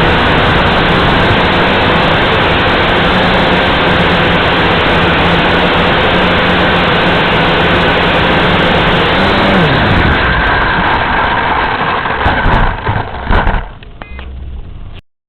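Galaxy Visitor 3 toy quadcopter's electric motors and propellers whirring steadily. About nine and a half seconds in the pitch drops as the motors spin down, followed by a few knocks before the sound cuts off.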